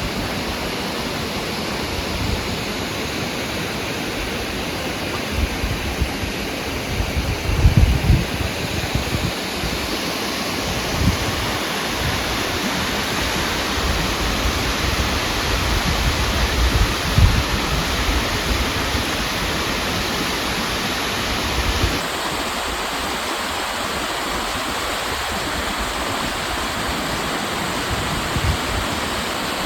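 Steady rushing water of a waterfall, with a few low rumbles near the middle. The sound shifts abruptly in tone twice.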